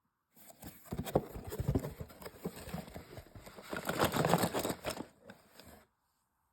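Die-cast toy minicars and their cardboard boxes being handled: a run of irregular clicks and taps, thickening into rustling about halfway, stopping shortly before the end.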